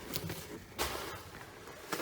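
Faint footsteps and movement noise, with a short rustle a little under a second in.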